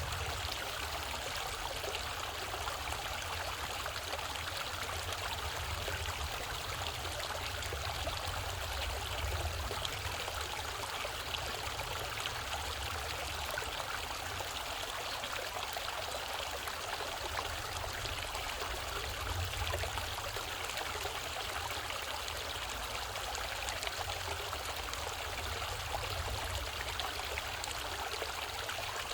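Mountain stream flowing over rocks in a valley, a steady rush and trickle of water with a low rumble underneath.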